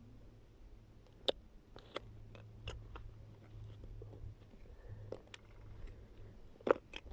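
Irregular small clicks and taps of scrap metal, nails, being handled on a fishing magnet, the loudest near the end, over a faint steady low hum.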